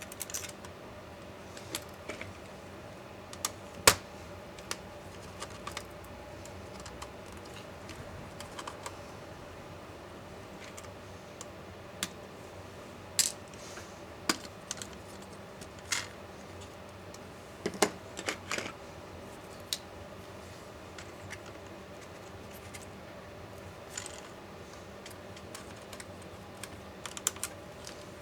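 Irregular clicks and taps of small plastic and metal laptop parts and tools being handled during disassembly, over a faint steady hum. The sharpest click comes about four seconds in, with small clusters of taps around the middle and near the end.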